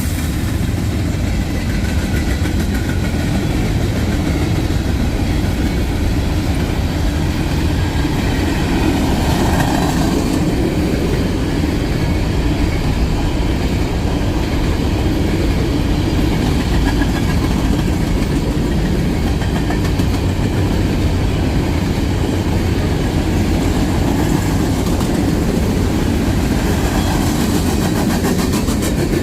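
CSX freight train passing close at speed: a loud, steady rumble of steel wheels rolling on the rails as the cars go by.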